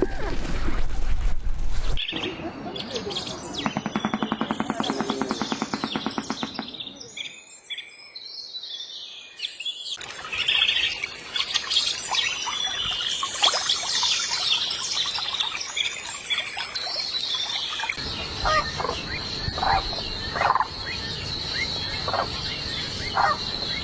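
Different birds chirping and calling, in short clips cut together: a fast rattling trill, then a burst of dense high chirping, then short calls repeated about once a second. Each change comes abruptly, about every eight seconds.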